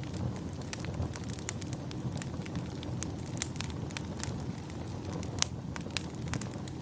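Wood fire crackling, with irregular sharp pops and snaps over a steady low rumble; one pop, about five seconds in, is louder than the rest.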